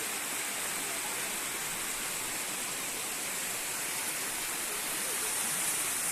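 Floodwater rushing steadily, a constant hiss-like roar of moving water with no breaks.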